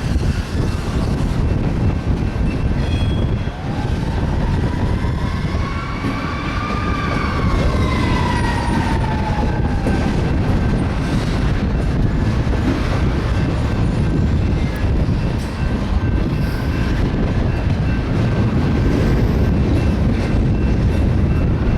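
BNSF freight train of auto rack cars rolling past with a steady, loud rumble of wheels on rail. A metallic squeal rises and then falls in pitch from about three seconds in to about ten seconds in.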